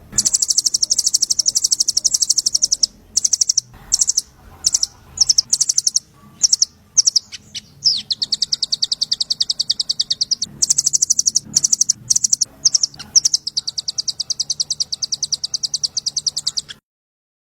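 A small songbird's fast, high trill of rapidly repeated notes, given in long runs with a stretch of separate chips and short bursts in the middle. It is a recorded master song of the kind played to train songbirds to copy it. It cuts off suddenly near the end.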